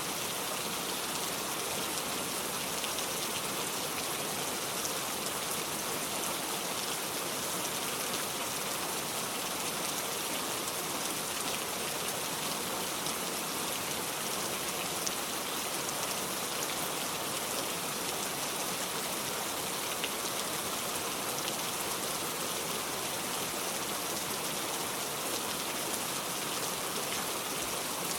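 Steady rain falling, a continuous even hiss of drops with no pauses or change.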